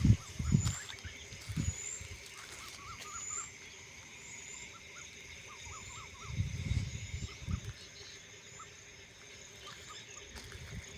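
Rural outdoor ambience of animal calls. A short high chirp repeats about once a second over a steady high hum, with scattered short lower chirps. Low thumps come near the start and again about six to seven seconds in.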